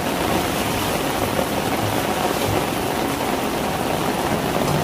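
Heavy rain pouring down steadily on a tiled rooftop, an even, unbroken hiss, with rainwater running across the flooded floor.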